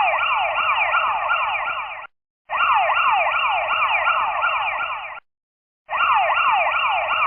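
Toy police car's electronic siren: a fast, repeating falling wail of about three sweeps a second. It stops briefly about two seconds in and again after about five seconds, then starts again.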